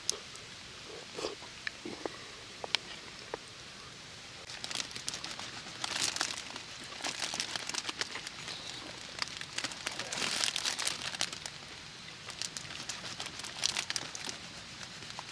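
Crinkling, crunching rustles with scattered small clicks, growing denser and louder from about five seconds in.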